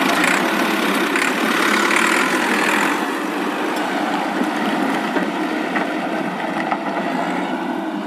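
Toy tractor running: a steady engine-like drone with no deep bass, a little louder in the first three seconds.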